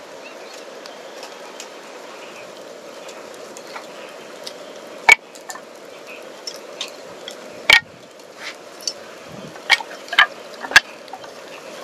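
Charcoal-and-wood fire in a small fire pit crackling under a grill, with about five sharp pops over a steady hiss.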